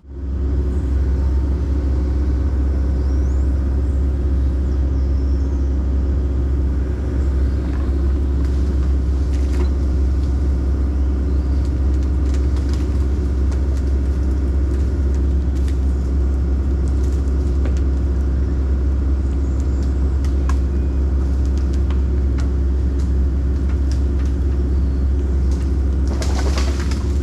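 Excavator's diesel engine running steadily at a constant speed, a loud even rumble with a few faint knocks now and then.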